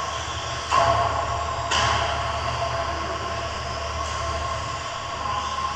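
Several radio-controlled racing trucks running on a track: a steady mix of motor whines over a low hum, with trucks passing close and louder about a second in and again just under two seconds in.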